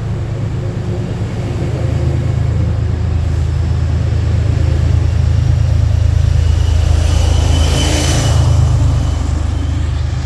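Push-pull commuter train passing: a steady deep rumble from the diesel locomotive, with a rush of wheel and rail noise swelling and peaking about eight seconds in.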